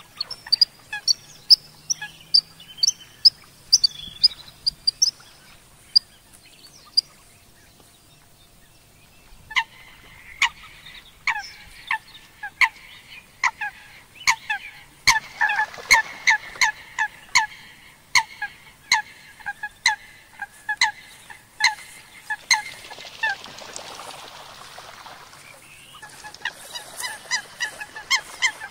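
Birds calling: short high chirps at first, then from about ten seconds in a louder call repeated more than once a second, pausing briefly before starting again near the end.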